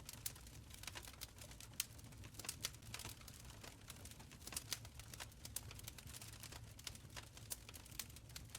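Wood fire burning in a stone fireplace: frequent irregular crackles and pops over a soft low rumble of the flames.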